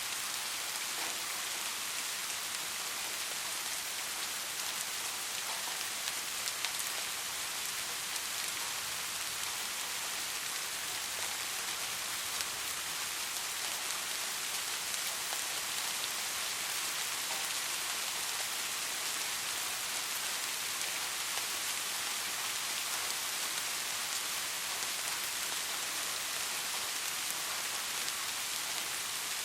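Steady rain falling: an even hiss with scattered individual drop ticks standing out now and then.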